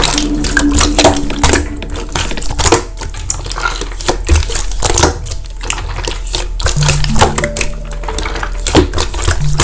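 Slime being squeezed and pressed by hand, giving many quick clicking and crackling pops, over background music with held notes.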